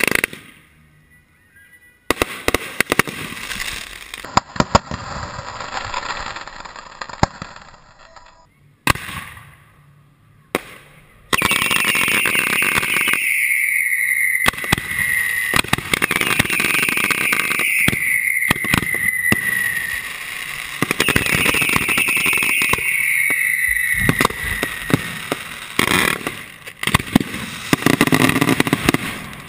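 Fireworks going off: rapid crackling pops and hissing, then a louder, denser barrage about halfway through with three long whistles that fall in pitch.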